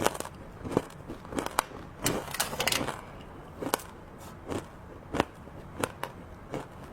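Close-up crunching and chewing of hard, crunchy chocolate treats. There are sharp crisp snaps about every half second to second, with a denser run of crackling about two to three seconds in.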